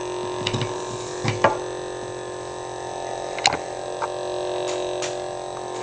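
Lightsaber sound board playing its steady idle hum through the hilt's speaker, with a few short knocks or clicks scattered through it.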